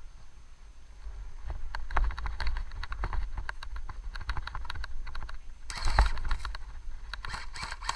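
Irregular run of sharp clicks and crackles, with a louder rustling burst about six seconds in.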